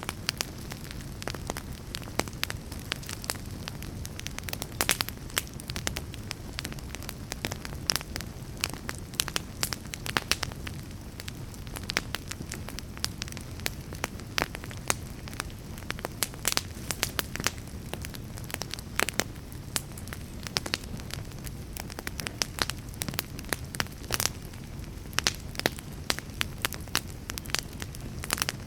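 Fire crackling: a steady low rumble of flames with frequent, irregular sharp pops and snaps.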